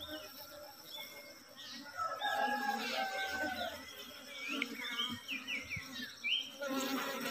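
Birds chirping: a busy run of short, quick chirps that slide up and down, with a few longer whistled notes about two to three seconds in.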